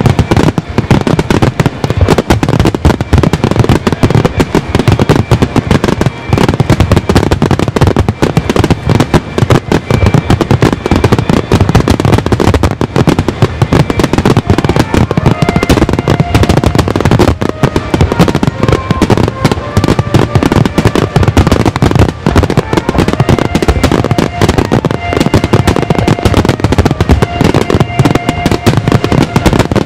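Large fireworks starmine: a continuous barrage of shells bursting in rapid, overlapping bangs and crackles, with faint music beneath.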